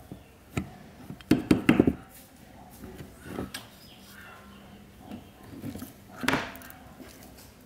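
Irregular knocks and clatter of tools and parts being handled during workshop restoration work: a quick cluster of knocks about a second and a half in, softer taps after it, and one louder knock near the end.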